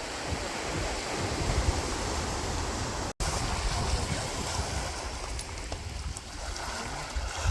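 Sea waves washing on a beach, with wind buffeting the microphone. The sound cuts out for an instant about three seconds in, then resumes.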